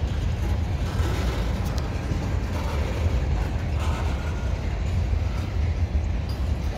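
Freight train of covered hopper cars rolling slowly past, a steady low rumble of wheels on rail with a few faint clicks.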